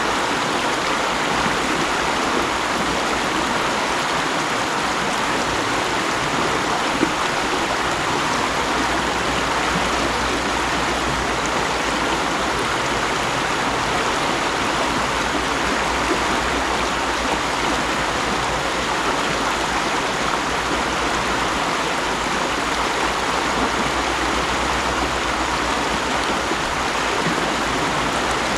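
Mountain stream flowing and splashing over rocks, a steady rushing of water.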